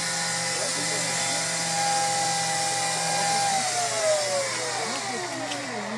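Off-road SUV's engine held at high revs while the 4x4 is stuck in mud and being pushed. The revs then drop in a long steady fall from about halfway through.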